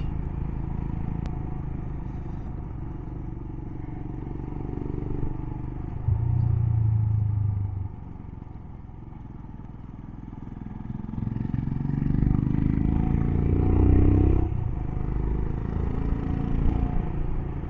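Royal Enfield Himalayan's single-cylinder engine running under way with road and wind noise. Its pitch climbs steadily for a few seconds about two-thirds of the way through, then drops suddenly.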